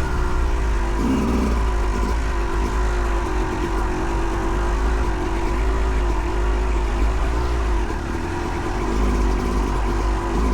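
2008 Yamaha YZ250 two-stroke dirt bike engine running at a fairly steady pitch under riding load, with strong wind rumble on the microphone.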